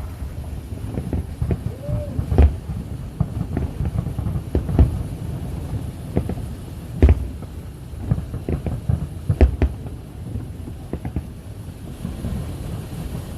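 Fireworks bursting: a string of irregular sharp bangs with deep booms, the biggest about every two and a half seconds, over a continuous low rumble.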